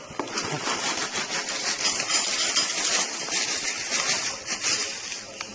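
Dry cereal poured into a bowl: a dense, steady rattle of many small pieces hitting the bowl and each other.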